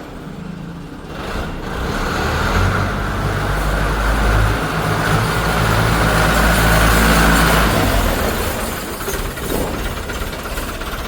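New Holland tractor's diesel engine running. It builds up to a heavier, louder pull about two seconds in, holds there for several seconds, then eases back to a lighter idle near the end.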